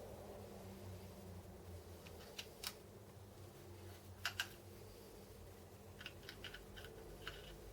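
Light clicks and taps from small parts and tools being handled while the feed-screw support is fitted: two sharp clicks, then a close pair about halfway, then a quick run of small ticks near the end, over a low steady hum.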